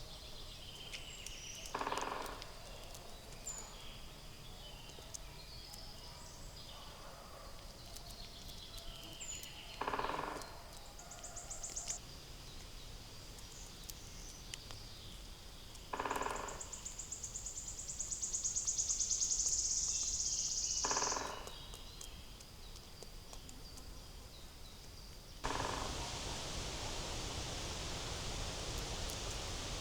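Forest ambience with wild birds calling: four short harsh calls spread through, high chirps, and a fast high trill lasting a few seconds in the middle. Near the end a steady rushing noise comes in.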